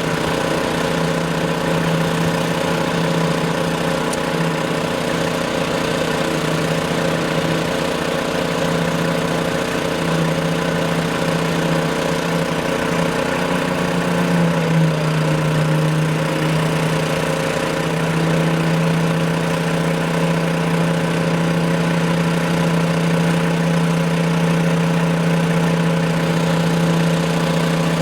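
An engine running steadily at a constant speed, its pitch settling slightly lower about halfway through.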